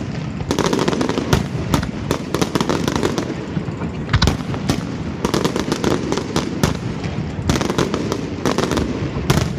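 Fireworks display: a dense, irregular run of bangs and crackles, several reports a second, over a continuous rumble.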